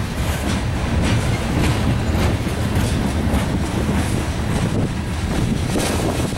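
Freight cars, covered hoppers, rolling past close by: a steady rumble of steel wheels on rail with a run of repeated clicks as the wheelsets pass over the rail joints.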